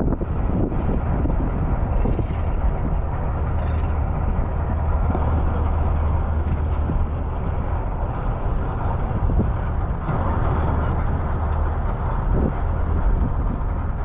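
A vehicle running steadily, with a constant low hum under a noisy rumble.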